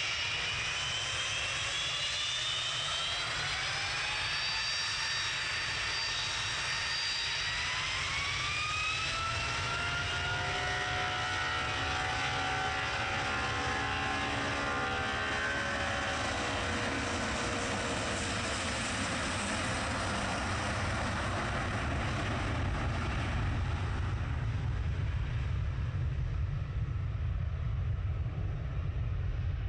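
Airliner taking off: its engine whine rises in pitch over the first several seconds as the engines spool up to takeoff power. The tones then drop in pitch as it rolls past, leaving a deep rumble that grows louder toward the end.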